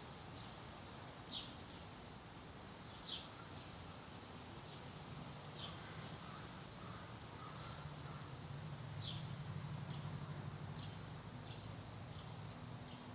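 A small bird chirping repeatedly: short, sharply falling chirps every second or so. Under it runs a faint low hum that swells about eight seconds in and fades again near eleven.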